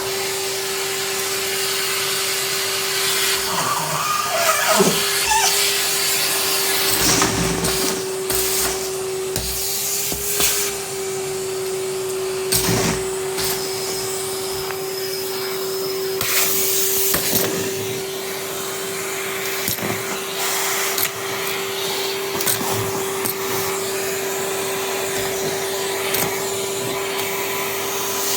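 Numatic Henry canister vacuum cleaner running steadily, its motor a constant whine over a rushing airflow, with scattered clicks and rattles of debris being drawn up the nozzle.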